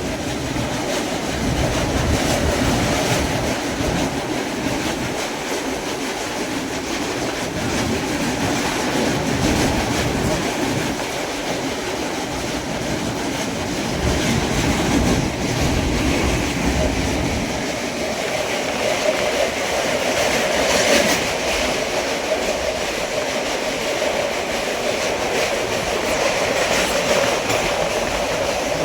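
Prashanti Express passenger train running on the rails, heard from aboard: a steady rumble and rattle of the moving coach.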